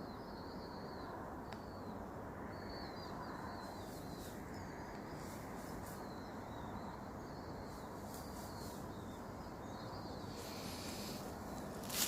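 Small birds giving short high chirps, one every second or so, over a steady low background hiss.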